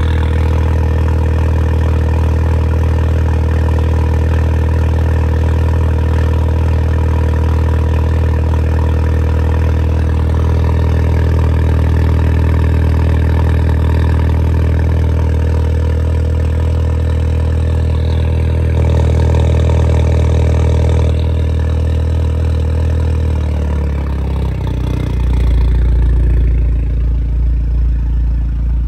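Audi 2.0 TFSI turbocharged four-cylinder engine idling steadily through an aftermarket valved exhaust. About three quarters of the way through the engine note steps down in pitch and settles into a deeper, louder low drone.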